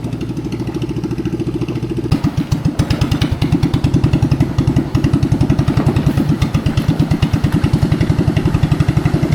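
Boat engine running with a rapid, even thumping that grows louder about two seconds in.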